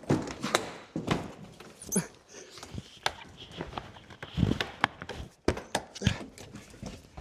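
Irregular clicks, knocks and thumps of a Morgan sports car's fabric hood being raised and fastened by hand: the frame and fittings handled, with a louder knock every second or so.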